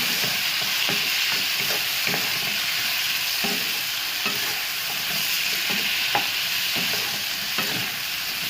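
Pineapple pieces sizzling steadily in hot oil in a frying pan, with a utensil scraping and knocking against the pan at irregular moments as they are stirred.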